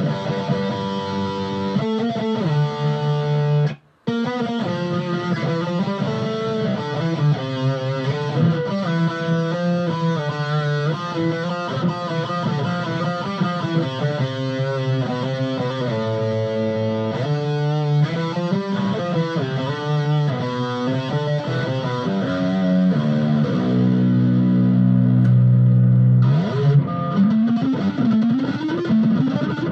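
Legator Ghost fanned-fret seven-string electric guitar played with distortion through a Blackstar ID:Core amp: fast riffs and runs, a brief stop about four seconds in, a chord held for a couple of seconds near the end, then sliding notes.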